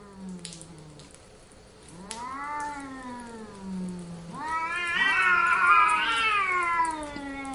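Cats yowling: a long drawn-out meow about two seconds in, then several overlapping yowls, louder, from about four and a half seconds on.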